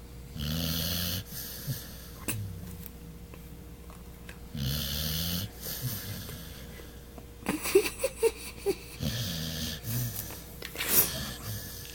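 A dog snoring in its sleep: a wheezy snore about every four seconds, three in all. Between the second and third snore come a few sharp clicks and short squeaks.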